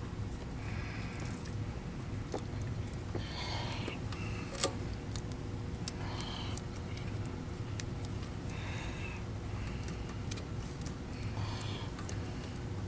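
Quiet handling sounds of work on a vacuum's wiring: scattered small clicks and rustles over a steady low hum, with a soft hissy swell about every two and a half seconds.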